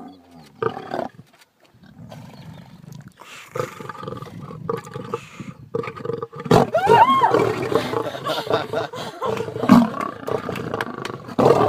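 Lion roaring, the calls getting louder from about six and a half seconds in, with pitch arching up and down.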